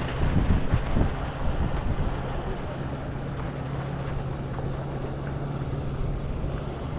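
A boat's engine running steadily in a low, even drone, with wind buffeting the microphone, gustier in the first couple of seconds.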